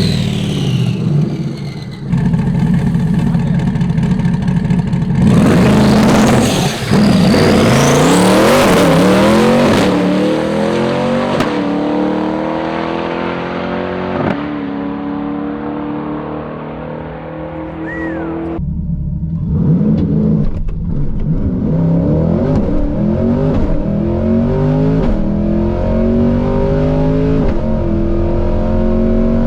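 High-powered drag cars accelerating hard down the strip, the engine pitch climbing and dropping back again and again as they shift up through the gears. The sound changes abruptly a few times.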